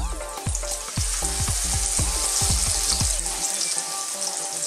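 Egg-batter-coated grilled eggplant frying in hot oil in a wok: a steady sizzle that grows louder about a second in as a second battered eggplant goes into the oil. Background music with a plucked bass line plays underneath, and the bass drops out near the end.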